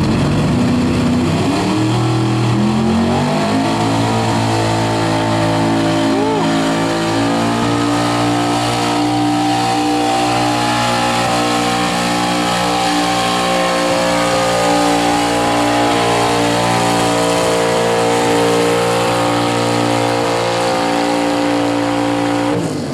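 Street diesel pickup truck's engine at full throttle on a pull. It revs up over the first few seconds, holds at high, steady revs for nearly twenty seconds, and cuts off suddenly near the end.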